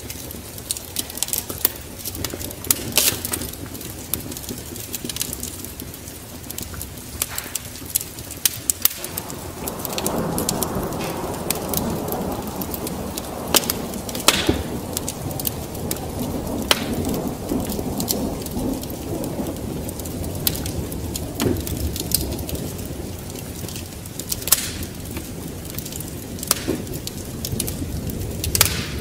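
Wood fire crackling with scattered sharp pops over a steady rain hiss; about nine seconds in, a long low rumble of thunder swells and slowly dies away.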